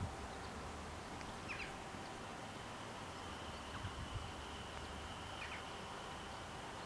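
Faint steady outdoor background with two short bird chirps, one about one and a half seconds in and another past five seconds.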